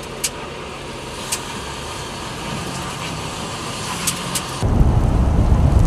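Steady vehicle road noise with a few sharp clicks, then an abrupt cut about four and a half seconds in to loud, low wind rumble on the microphone.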